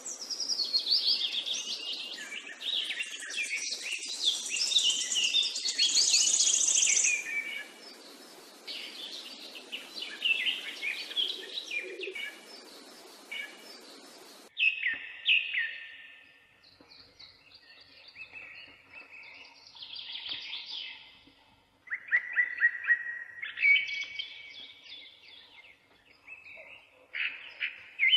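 Birds chirping and singing in many quick, sweeping calls and trills. A steady hiss behind them cuts off about halfway through, leaving separate clusters of chirps.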